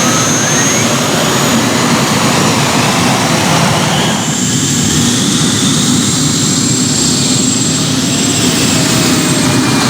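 Competition pulling tractor's engine running flat out under heavy load on a pull with the weight sled, loud and steady, its sound turning duller about four seconds in.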